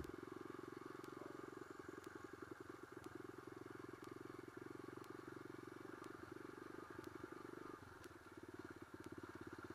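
Single-cylinder dirt bike engine running steadily at low cruising revs, its firing pulses even, with the throttle eased off briefly about eight seconds in.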